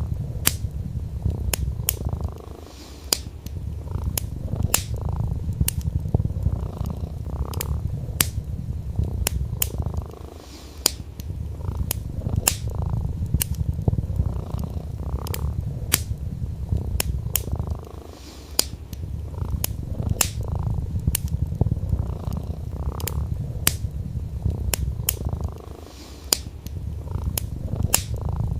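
A domestic cat purring in a steady low rumble that dips briefly about every eight seconds, over the irregular sharp snaps and pops of a wood fire crackling.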